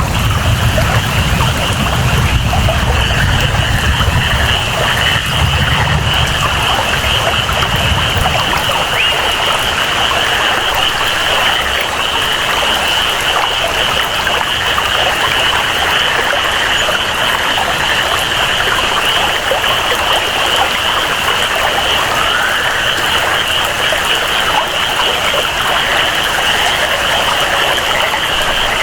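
Steady tropical rainfall with a constant high-pitched chorus of rainforest frogs or insects. A low rumble of thunder fades away about eight seconds in.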